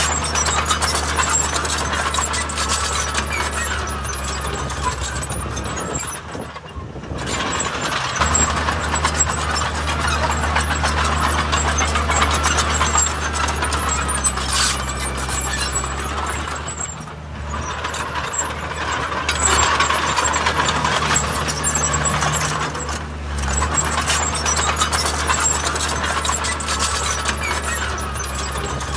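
Heavy diesel construction machinery running under load: a steady low engine drone with dense mechanical noise on top, easing off briefly about six, seventeen and twenty-three seconds in.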